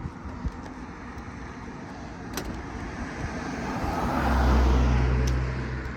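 A car driving by, its low engine hum swelling to a peak about four to five seconds in and then fading.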